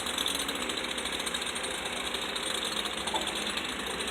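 Demolition machinery running steadily, with a fast, even hammering like a jackhammer breaking concrete.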